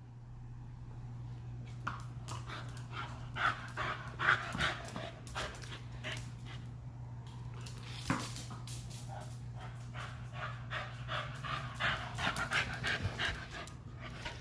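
A dog panting in quick, repeated breaths, with a steady low hum underneath.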